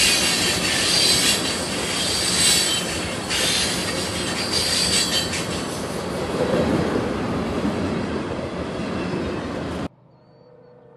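Tank cars of a unit tank train rolling past close by: steel wheels rumbling on the rail, with high wheel squeal strongest in the first half. The sound cuts off suddenly near the end, leaving only a faint steady tone.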